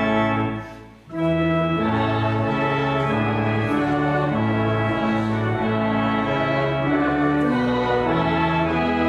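Church organ, newly rebuilt, playing sustained chords. The sound dies away about a second in, then a new phrase begins, with the chords changing every half second to a second.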